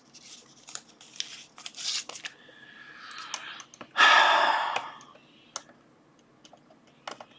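Plastic packaging being crinkled and handled, with one loud tearing noise about four seconds in, then a few light clicks.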